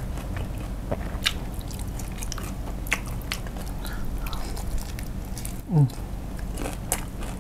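Close-miked biting and chewing of crispy fried chicken coated in spicy sauce, with scattered sharp crunches from the crisp skin. About six seconds in, a short, loud vocal sound from the eater falls in pitch.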